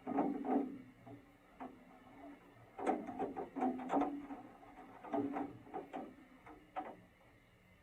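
Several clusters of quick clicks and knocks, loudest right at the start and again about three to four seconds in, dying away before the end.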